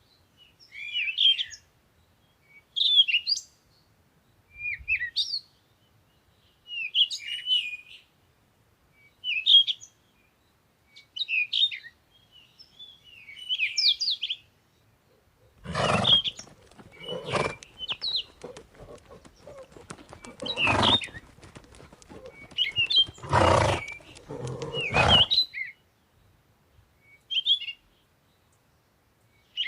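Short, high chirping calls repeated about once every one to two seconds. About halfway through, five or six loud, harsh calls break in among them over roughly ten seconds, then the chirps go on alone.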